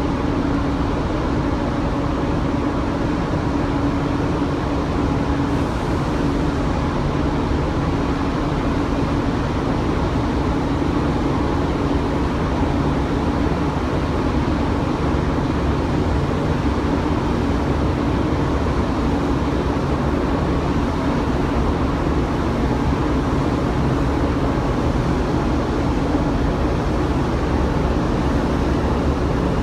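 Steady low drone of a large ferry's engines and ventilation machinery, heard from on board. It is a constant rumble with a held hum and no breaks.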